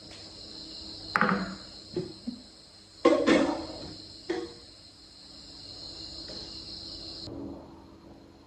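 Steady, high-pitched insect chirring that stops about a second before the end, with a few sharp knocks over it: a loud one about a second in, a louder one about three seconds in, and lighter ones between.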